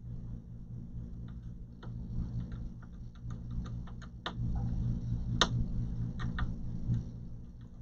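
Scattered light clicks and taps of hands handling parts inside an opened all-in-one desktop computer, with two sharper clicks about four and five and a half seconds in, over a steady low hum.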